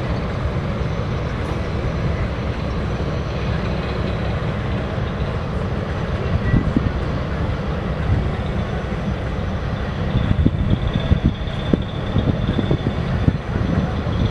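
A train running past on the railway line: a steady rumble of wheels on rail, which grows rougher and more uneven in the last few seconds.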